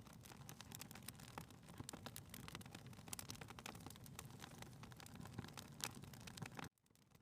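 Faint crackling of a wood fire in a fireplace: irregular sharp pops and snaps over a soft low rumble. The sound cuts out abruptly for about half a second near the end.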